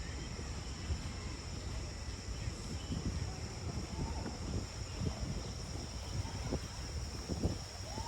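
Outdoor ambience: a steady high insect drone over a low rumble, with a few faint short chirps in the second half.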